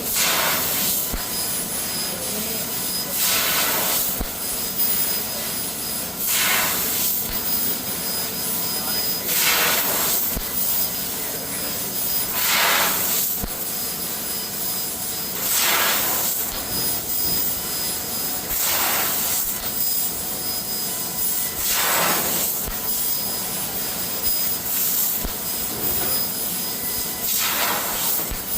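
CNC laser cutter cutting steel sheet: a steady rushing hiss of cutting gas, rising in a louder surge about every three seconds.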